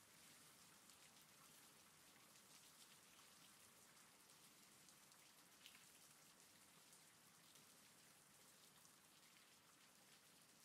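Faint steady rain, with scattered drops ticking through it.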